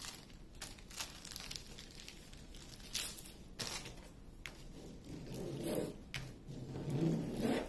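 Wooden tongue depressor scraping and pressing over the plastic film of a diamond-painting canvas, smoothing out air bubbles, with crinkling of the plastic and scattered light clicks.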